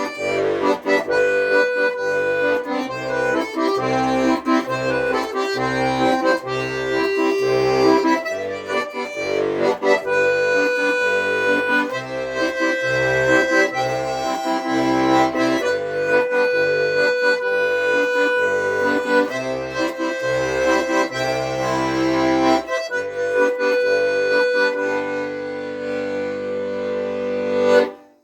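Accordion playing a tune, sustained melody notes over a steady rhythm of short alternating bass notes, ending on a long held chord that cuts off suddenly near the end.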